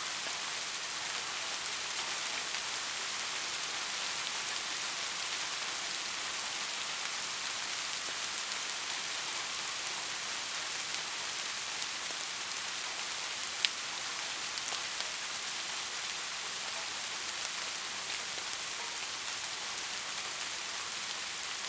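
Steady rain falling, a continuous hiss with scattered drop ticks and one sharper drip near the middle.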